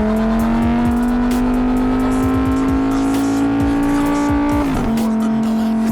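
Lamborghini Huracán EVO RWD's naturally aspirated V10 accelerating: its pitch climbs slowly for nearly five seconds, then drops sharply on an upshift and holds steady. A rap track with a thumping beat plays over it.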